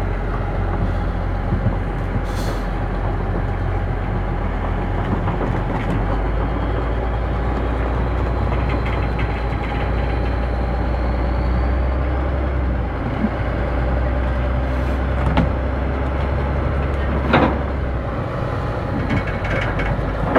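Heavy diesel earthmoving machinery (excavator and articulated dump truck) running steadily, the engine note shifting a few times. Two sharp knocks come near the end.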